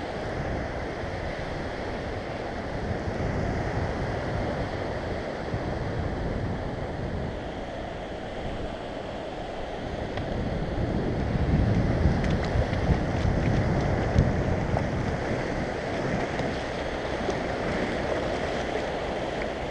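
Surf washing onto the beach, with wind rumbling on the microphone. It swells louder about halfway through.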